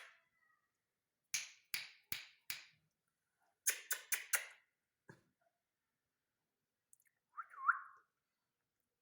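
Indian ringneck parakeet giving short, sharp calls in two quick runs of four, then one more, followed by a single longer call near the end.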